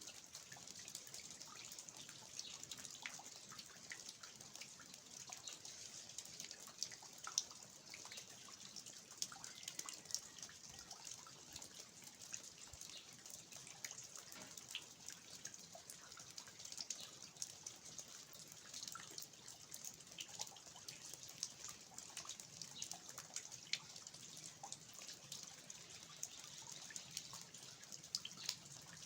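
Faint, steady rain hiss with irregular sharp drips of water falling from the roof eaves.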